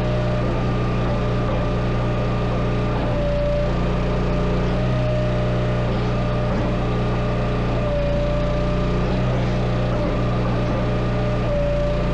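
An engine running steadily. A whine comes and goes every few seconds, with small shifts in the low engine note at the same moments, as if the load is changing.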